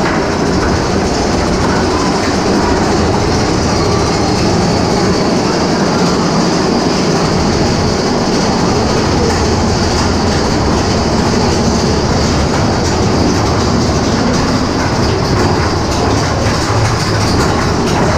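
Mine-train roller coaster running along its steel track, heard from a seat on the train: a loud, steady rumble of the wheels on the rails with rapid clicks throughout.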